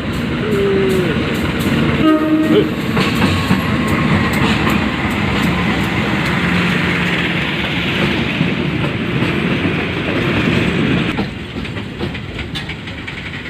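A diesel-hauled train running past on the rails, with wheels clattering over the track. A short horn blast sounds about two seconds in. The rumble drops away about eleven seconds in.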